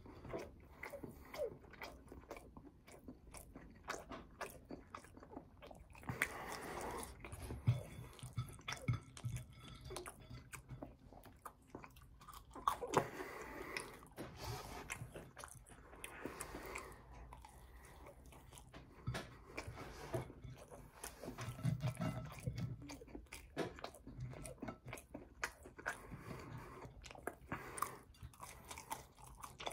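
Close-miked chewing and biting of a bacon cheeseburger and french fries: irregular crunches and mouth clicks, on and off.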